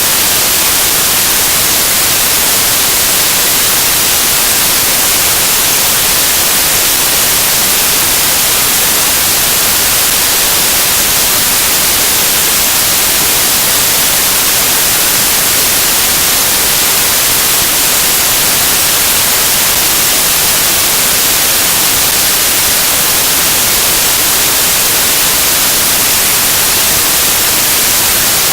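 Loud, steady static hiss with no other sound, like a broken audio track: the speech cuts out abruptly just before it.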